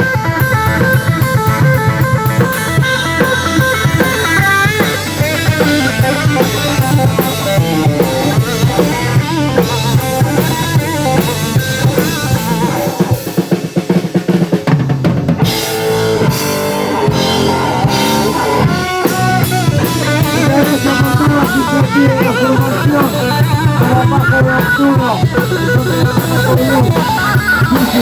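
Rock and roll band playing live with drum kit, bass and electric guitar; about halfway through the low end drops out briefly as the drums carry on, then the full band comes back in.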